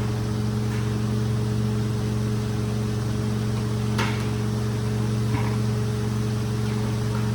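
A rug-cleaning machine's motor running with a steady hum, with a light tick about four seconds in and another a second or so later.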